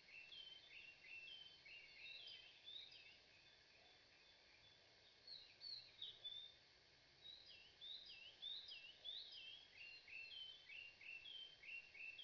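Birds chirping faintly, a busy run of many short, quick chirps with a short lull about four seconds in.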